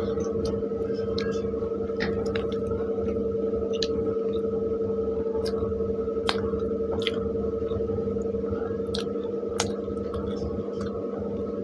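Close-up eating: wet squishing and chewing of soft pav bread soaked in pav bhaji, with scattered sharp mouth clicks. A steady hum lies underneath.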